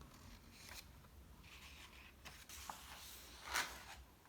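Faint paper rustling and swishes of a picture book's page being handled and turned, loudest about three and a half seconds in.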